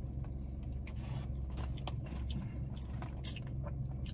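Close-up chewing and biting on fried chicken: scattered small crunchy clicks and wet mouth sounds over a steady low hum.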